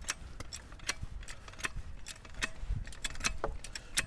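Irregular light metallic clicks and clinks from a trolley jack and its cradle being handled and set under a log.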